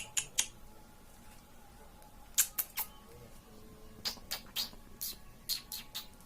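Indian ringneck parrot making a string of short, sharp, high-pitched squeaks in irregular clusters: two near the start, three about two and a half seconds in, and a faster run from about four seconds in.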